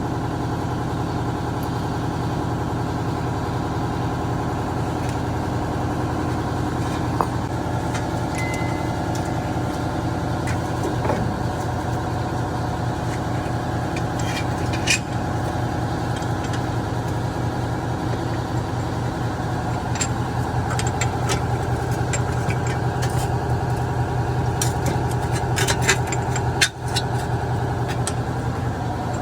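A steady machine hum with scattered clicks and knocks of hand-tool work on metal parts, more of them near the end.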